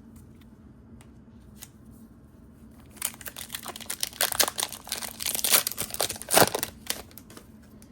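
Foil Pokémon TCG booster pack wrapper being torn open and crinkled, a dense run of crinkling and tearing that starts about three seconds in and lasts about four seconds.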